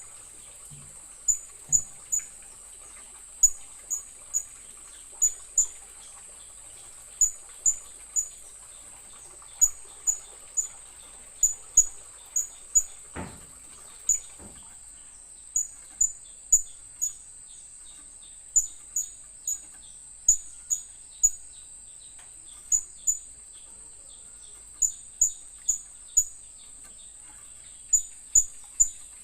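Blue-crowned hanging parrot (serindit) calls: short, sharp, high-pitched chirps in twos and threes, repeating every second or two over a steady high whine. This is a lure recording played to get a silent serindit to start calling.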